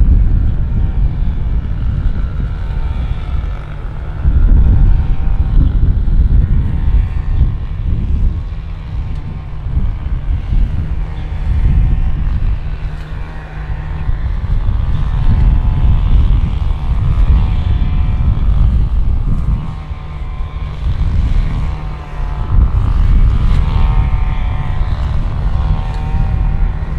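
Aircraft engines droning with a wavering whine that grows stronger in the second half, over a heavy low rumble of wind buffeting the microphone.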